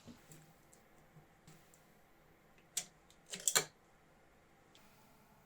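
A few light clicks and taps: one about three seconds in, then a quick cluster of several half a second later, over quiet room tone.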